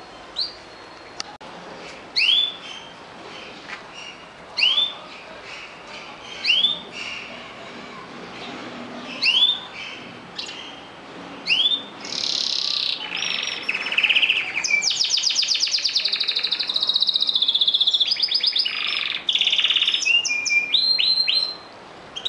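Domestic canary singing: short sweeping chirps repeated about every two seconds, then from about twelve seconds in a loud, continuous song of fast trills that stops shortly before the end.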